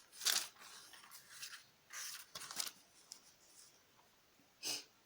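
Thin Bible pages being turned and handled: a few short papery rustles, the loudest just after the start and a brief one near the end.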